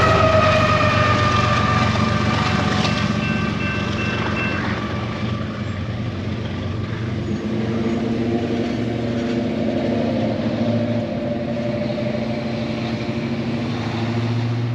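BNSF freight train rolling past at a grade crossing, a steady heavy rumble of wheels and cars. In the first couple of seconds the locomotive's horn falls in pitch and fades as it goes by.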